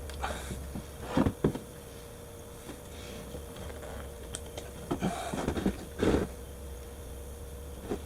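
Handling knocks and rustles during an ATV oil refill: two sharp knocks just over a second in, then a cluster of knocks and rustling from about five to six seconds in, over a steady faint hum.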